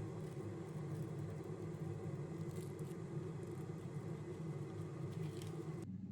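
Steady low rumble with faint scattered ticks; the upper part of the noise cuts off abruptly near the end.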